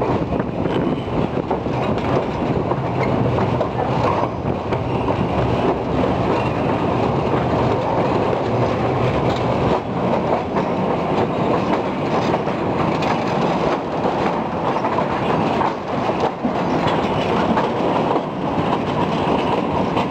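Metre-gauge passenger train running across a steel trestle bridge, heard from an open coach doorway: a steady loud rumble with the clatter of wheels on the rails.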